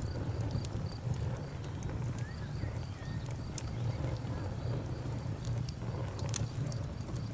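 Wood fire crackling: irregular sharp pops and snaps over a low, steady rumble, with the loudest pop about six and a half seconds in. A cricket chirps faintly behind it at an even pace, about twice a second.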